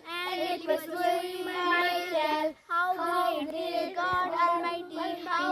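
Children's voices chanting the next lines of the poem together in a sing-song, with a brief pause about two and a half seconds in.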